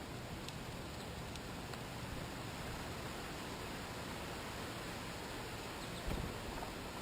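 Steady background hiss, with a few faint clicks early and a short low thump about six seconds in.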